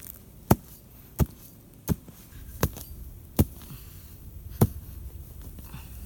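Six sharp blows of a hand tool striking, about one every three-quarters of a second, with a slightly longer pause before the last.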